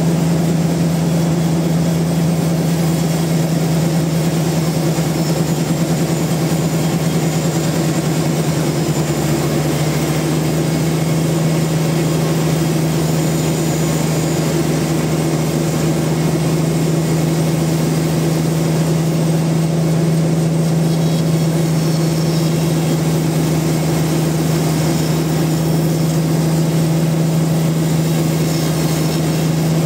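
Sawmill machinery running steadily at one constant pitch, a low hum with a hiss above it.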